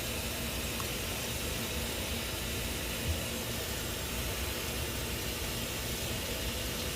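Steady, even hiss with a faint hum underneath, and one small knock about three seconds in.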